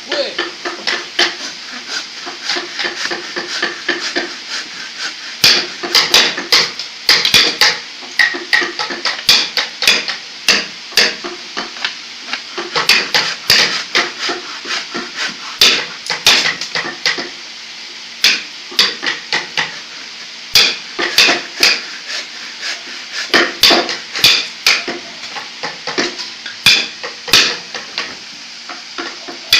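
Repeated hammer blows on wood, coming in irregular clusters of a few strikes a second, lighter at first and louder from about five seconds in.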